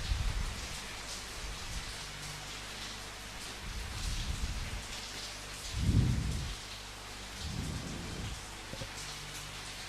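Steady rain falling, with low rolls of thunder rumbling several times; the strongest roll comes about six seconds in.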